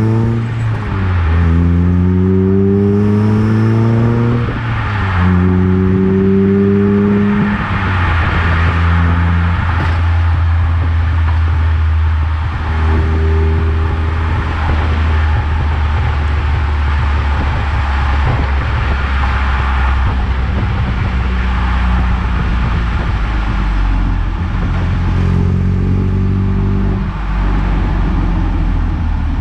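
Eunos Roadster's four-cylinder engine pulling up through the gears, its pitch climbing three times with short breaks between shifts, then holding a steady cruise under road and tyre noise, with one more brief rise near the end.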